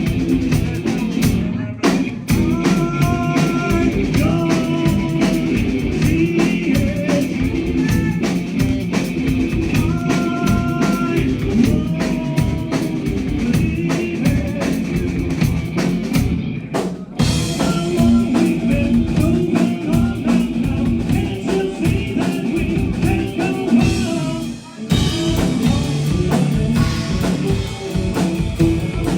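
Live rock band playing loud on drum kit and electric guitar with singing, the drums hitting densely throughout. The band stops for a brief moment about 2 seconds in, again about 17 seconds in and again about 25 seconds in.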